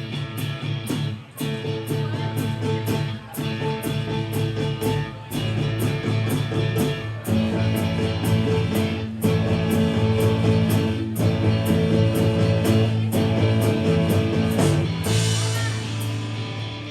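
A band playing a rock song: guitar over drums keeping a steady beat.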